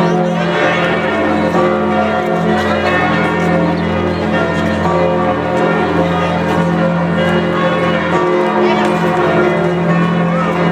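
Church bells of Notre-Dame cathedral pealing, several bells ringing at once so that their tones overlap and hang on without a break.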